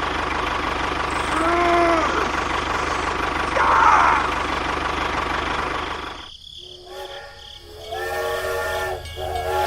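A small motor running steadily under a hiss, with two short whistle-like calls. About six seconds in it cuts out, and from about eight seconds a steady horn or whistle chord of several tones sounds.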